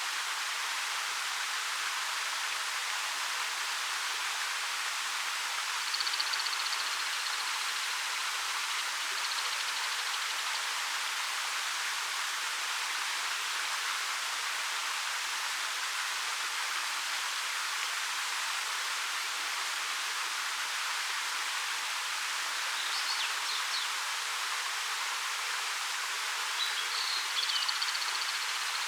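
Water falling 13 m down a rock face, a steady, even rush of a waterfall. A few faint, high bird chirps come over it, about six seconds in and again near the end.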